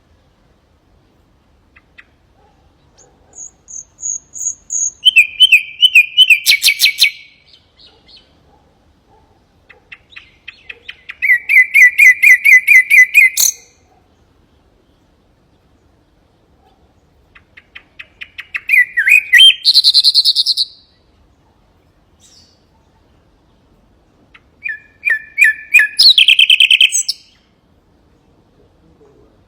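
Common nightingale singing four phrases a few seconds apart. Each phrase starts with soft repeated notes that swell into a loud, fast run of repeated notes, some phrases ending in a higher trill.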